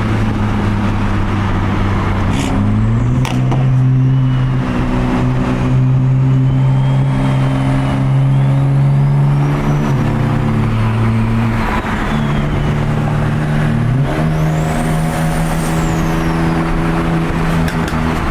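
Turbocharged BMW engine running steadily at cruise, its note stepping up in pitch twice and dropping once, with a thin whistle rising and falling over it.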